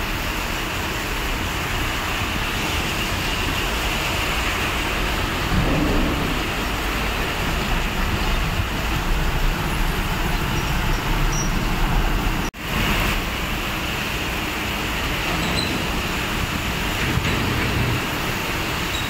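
Heavy rain pouring steadily onto a street, mixed with vehicles passing on the wet road. The recording briefly cuts out about two-thirds of the way through.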